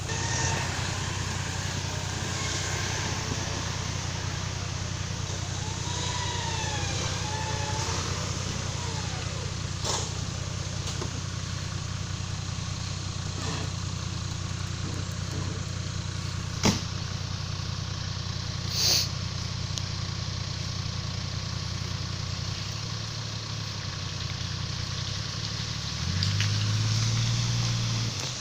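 Car engine running steadily, getting louder near the end, as the car tries to climb out of slippery mud on tyres that won't grip.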